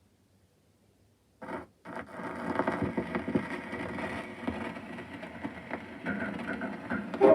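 Gramophone needle set down on a shellac 78 rpm record, with two clicks about a second and a half in, followed by the crackling hiss of surface noise from the lead-in groove before the music starts.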